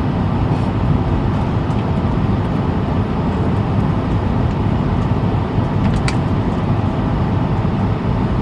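Steady low rumble inside the passenger cabin of an Airbus A220-300 on the ground before takeoff, with a small click about six seconds in.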